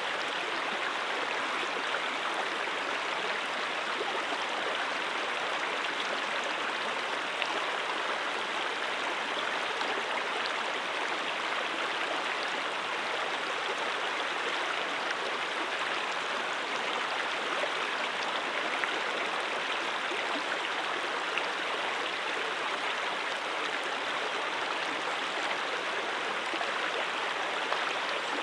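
A brook flowing over rocks: a steady, even rush of running water with no breaks.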